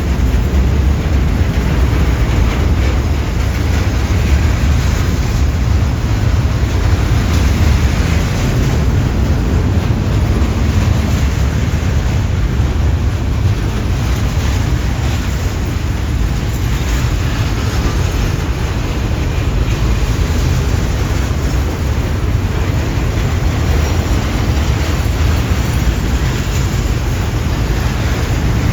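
KTMB freight train rolling past with a steady low rumble from its wheels on the track.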